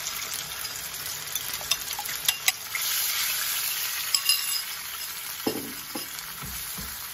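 Oil sizzling in a wok as egg goes in beside stir-fried chicken and vegetables: a couple of sharp clicks a little over two seconds in, then the sizzle swells for a second or two as the egg hits the hot oil.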